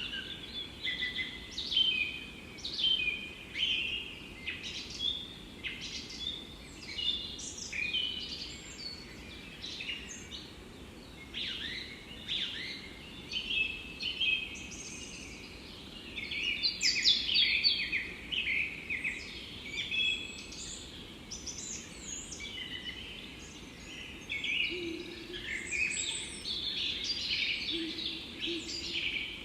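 Forest birds singing: many short chirps and trills overlapping, heaviest in two stretches, over a steady low background hiss.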